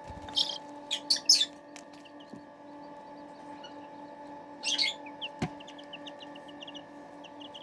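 Young chicks peeping: a few loud peeps in the first second and a half and again about five seconds in, with many quick soft cheeps from about three seconds on. A steady electrical hum runs underneath, and a single sharp tap sounds about five and a half seconds in.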